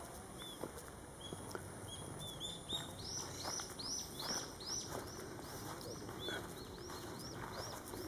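A small bird calling a rapid series of high, arched chirps, about two or three a second. It starts about two and a half seconds in and thins out near the end.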